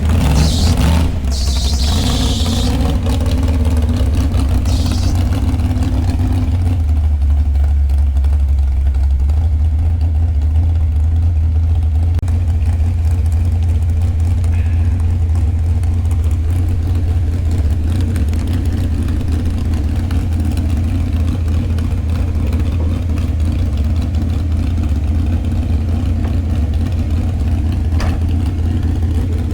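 Truck engine running with a steady low drone while driving. A hissing rush of noise sounds over it in the first few seconds.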